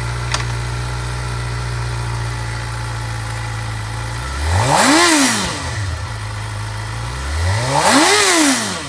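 2015 Suzuki GSX-R600's fuel-injected, liquid-cooled four-cylinder engine idling steadily, then revved twice: the pitch rises and falls about four and a half seconds in and again near the end.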